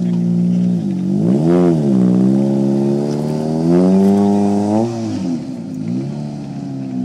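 Rally car engine revving: the pitch dips and jumps back up about a second and a half in, then climbs steadily and falls away about five seconds in.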